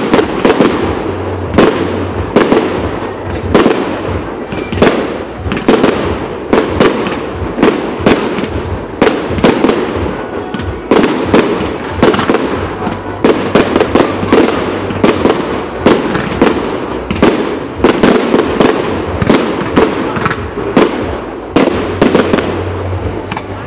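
Firework display going off: a continuous rapid series of sharp bangs, two or three a second, over a steady crackle.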